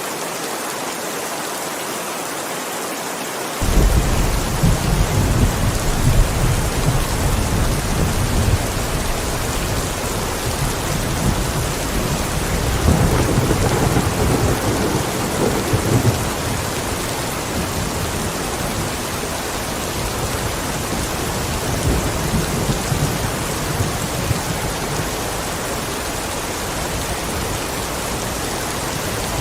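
Steady heavy rain, joined suddenly a few seconds in by a deep rumble of thunder that keeps rolling and swells twice more.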